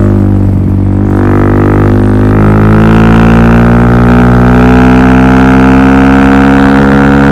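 Suzuki DR-Z400SM's single-cylinder four-stroke engine running through a Yoshimura full exhaust system: a loud, steady drone whose pitch rises a little a few seconds in and then holds.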